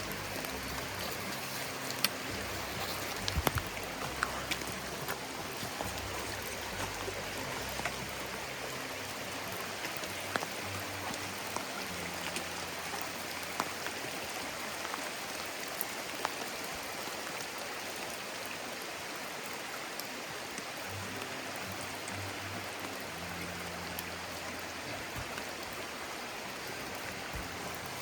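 Stream running high, a steady rush of water. A few sharp taps cut through it, most in the first few seconds.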